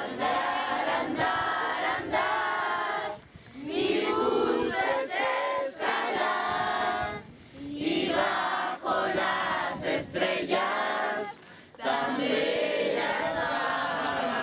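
A group of young voices singing together in unison, in phrases of a few seconds separated by short breaths.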